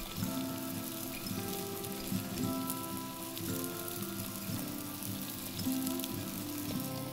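Background music over a steady crackling hiss of food frying on a hot griddle pan, with noodles, seafood and kimchi cooking.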